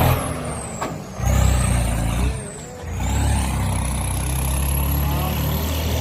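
Swaraj 855 tractor's turbocharged diesel engine revving, dropping off twice and picking up again, with a high turbo whistle that falls and rises with the revs.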